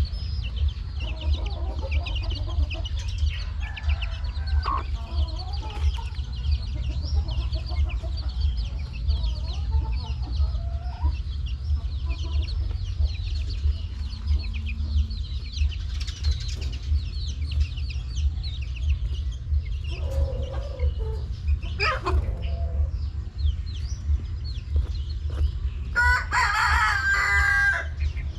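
A flock of chickens clucking and peeping continuously, with a rooster crowing loudly for about two seconds near the end. A steady low hum runs underneath.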